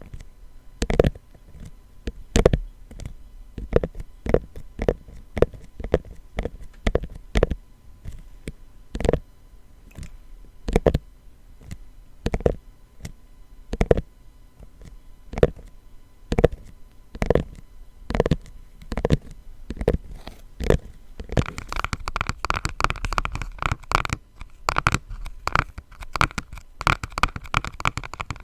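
Slow, single taps on a high-end box, then about 21 seconds in a switch to quick, dense tapping and scratching on a small food-colouring box, with a faint ringing note under it.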